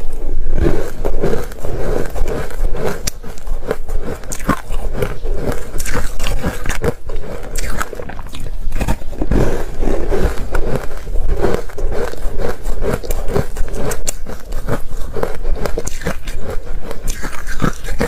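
Close-up biting and chewing of ice, a dense run of irregular crunches and crackles.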